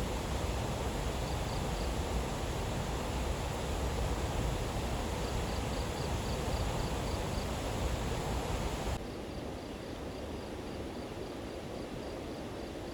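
Steady hiss of rain falling, with a faint high insect chirp repeating several times a second. The rain drops suddenly to a lower level about nine seconds in.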